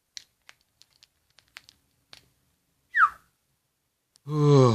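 A run of light, irregular clicks for about two and a half seconds, then a short, sharply falling tone about three seconds in. A voiced sigh begins near the end.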